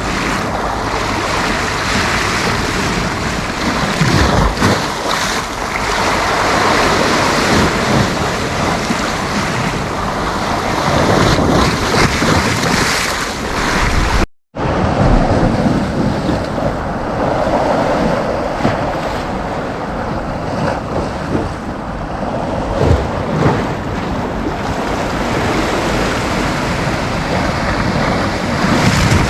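Sea waves breaking and washing on a sandy beach, a continuous surging rush, with wind buffeting the microphone. The sound cuts out for a split second about halfway through, then carries on slightly duller.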